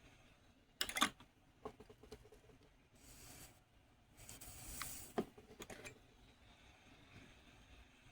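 A few sharp clicks and knocks of small objects being handled, with two short stretches of rubbing noise in between.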